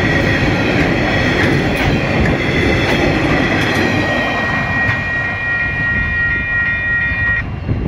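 Freight train wagons rolling past over a level crossing, wheels clattering, the rumble dying away about halfway through. Over it a steady high ringing, the crossing's warning bell, turns into rapid regular pulses and cuts off abruptly near the end.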